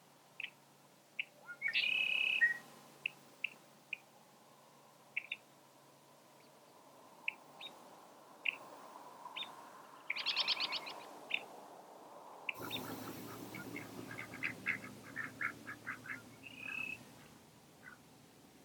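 Wild birds calling: scattered short chirps, a brief held note about two seconds in, a rapid trill about ten seconds in, then a quicker run of chirps near the end.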